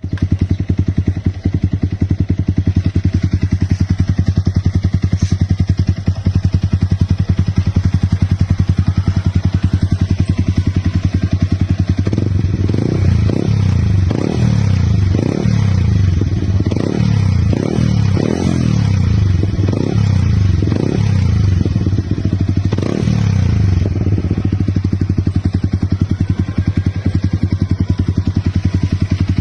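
Yamaha R15's single-cylinder engine through a large aftermarket shorty exhaust. It idles with an even thumping pulse, then from about twelve seconds in is blipped a dozen or so times in quick throttle revs, before settling back to idle near the end.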